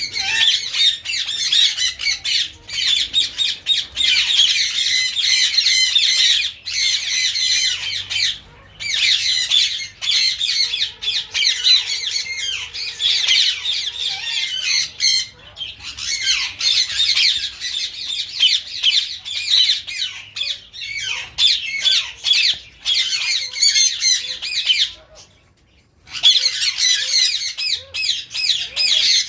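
A flock of caged breeding birds chattering without pause, a dense high-pitched din of many overlapping calls. It breaks off briefly twice, about a second near the end.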